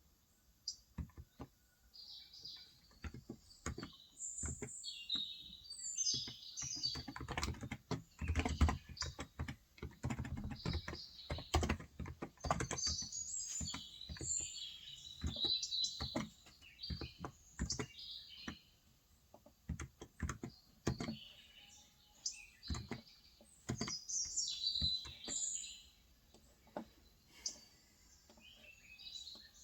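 Typing on a Cox Endeavor electro-capacitive (Topre-style) 35 g tenkeyless keyboard: scattered keystrokes at first, then fast runs of typing through the middle, thinning out near the end. Small birds chirp throughout.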